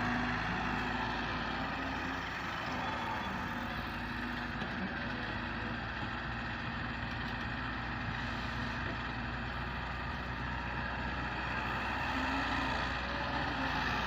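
Massey Ferguson 260 tractor's diesel engine running steadily.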